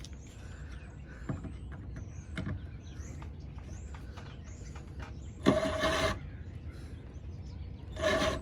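Power drill running in two short bursts, each with a steady motor whine, the first a little over half a second long and the second shorter, about two and a half seconds apart.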